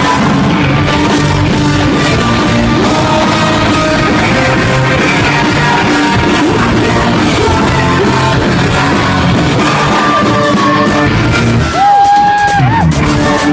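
Rock band playing, with guitars, drums and sung and yelled vocals. About twelve seconds in the sound drops for a moment and a single held note rings out over the band.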